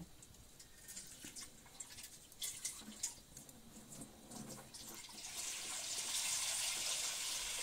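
A few light clicks and rattles of handling, then about five seconds in a steady rush of water starts running into a pot of salted potatoes.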